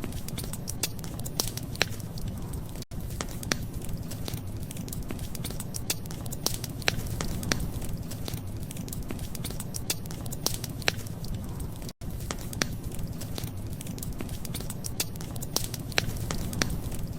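Wood fire crackling: irregular sharp pops and snaps over a steady low rumble. The sound drops out for an instant twice, about three seconds in and about twelve seconds in.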